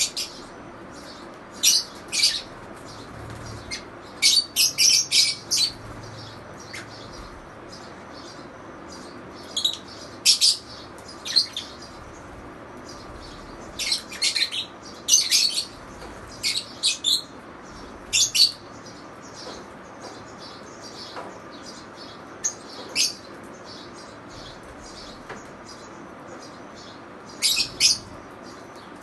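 Pet lovebirds chirping: short, high-pitched chirps that come in quick clusters of several, with pauses of a few seconds between clusters.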